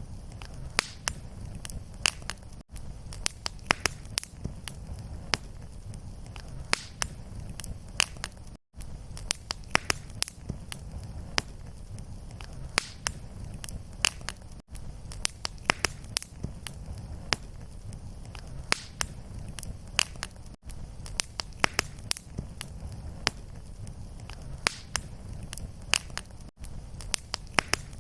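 Fireplace fire crackling: irregular sharp pops and snaps over a steady low rumble of flame. The sound briefly drops out about every six seconds.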